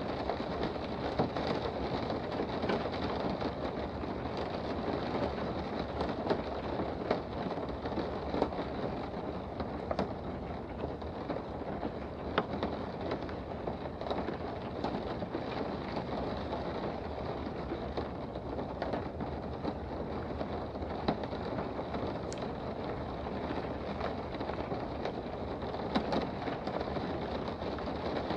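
Steady rain heard from indoors, an even hiss with scattered light taps of drops striking surfaces.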